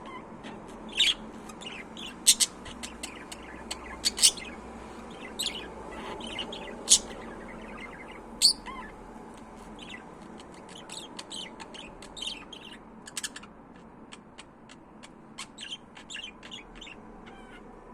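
Budgerigars chirping: a run of short, sharp chirps and calls, with several louder ones in the first half, growing sparser and quieter toward the end.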